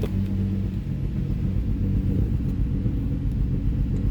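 Nissan 350Z's 3.5-litre V6 idling steadily, a low even rumble; the misfire now seems gone, traced to a bad spark plug.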